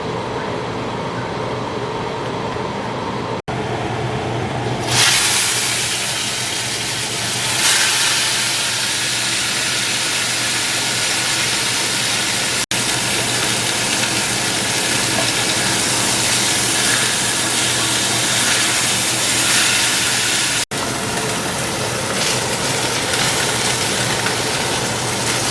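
Steaks sizzling in a hot pan, a steady hiss over a low hum. The sizzle jumps louder and brighter about five seconds in and stays strong.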